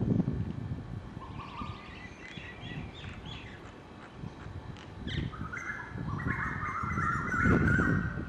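Small birds chirping and calling in quick, short notes, with a longer run of higher whistled calls in the second half, over a low outdoor rumble that grows louder near the end.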